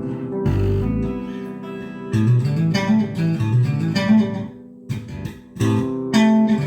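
Guitar being played in a demo: ringing notes over a moving line of low notes, with a short dip about five seconds in before the playing picks up again.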